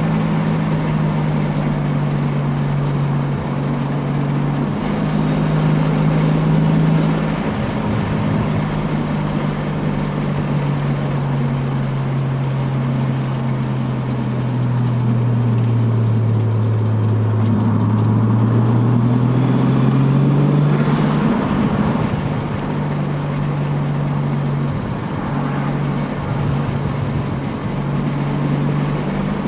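1992 Toyota Supra Mk3's 7M-GTE 3.0-litre turbocharged inline-six running steadily while the car is driven, heard onboard. The engine note sinks slowly, then climbs back up about two-thirds of the way through and settles again.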